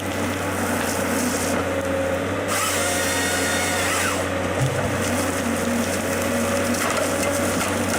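Power saw cutting wood over a steady machine hum, with the higher noise changing abruptly a few times.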